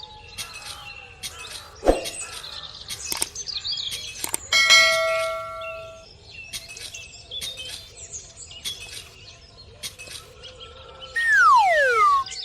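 Chirping throughout, with a bell-like ding about four and a half seconds in that rings out for over a second, and a loud falling whistle-like glide near the end.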